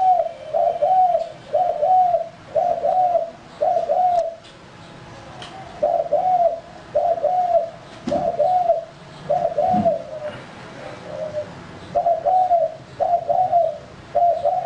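Male spotted dove cooing: runs of repeated, arched coos at about one and a half per second, broken twice by pauses of a second or two.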